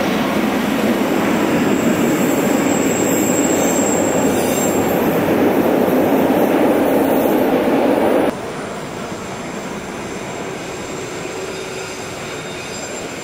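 Rhaetian Railway metre-gauge train hauled by a Ge 6/6 II electric locomotive rolling past close by, a steady rumble of wheels on rail with a thin high wheel squeal for a few seconds. About eight seconds in, the sound drops suddenly to a quieter, more distant rolling of the same train.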